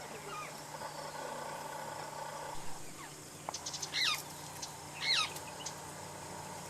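Two short bird calls about a second apart, roughly four and five seconds in. Each is a quick sharp note that slides downward, with a few faint clicks just before the first, over quiet outdoor background.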